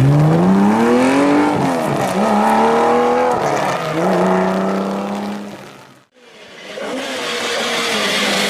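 Historic rally car engine accelerating hard, its pitch climbing through two gears with a drop at each upshift, then holding steady before fading away. About six seconds in the sound breaks off briefly and another rally car's engine comes in.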